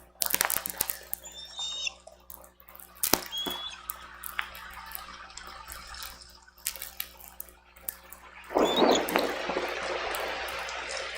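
Rain and storm wind on a nest-camera microphone: irregular drops tapping and clicking, with a stronger gust about eight and a half seconds in. A few short, high chirps break through, one a little after a second in, one near three seconds and one during the gust.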